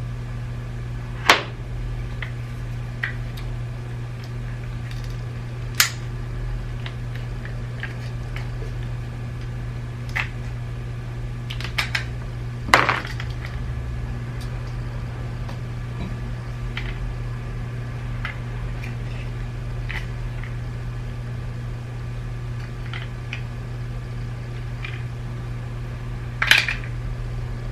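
Scattered clicks and clinks of small plastic and metal parts and tools being handled while an iDrive controller is taken apart, with a few sharper knocks among many faint ticks, over a steady low hum.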